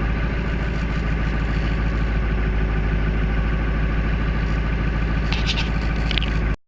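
Ford F450's 7.3 L Power Stroke diesel V8 idling steadily at normal idle on a cold start, not yet kicked up into its warm-up fast idle. It runs without a muffler. The sound cuts off suddenly at the very end.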